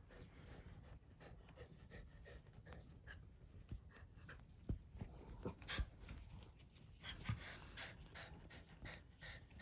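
A dog panting and sniffing close by, with scattered soft rustles and taps.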